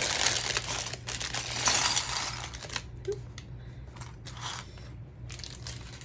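Plastic bag of Lego pieces crinkling and being torn open, loudest in the first three seconds, then quieter scattered rustles and small clicks.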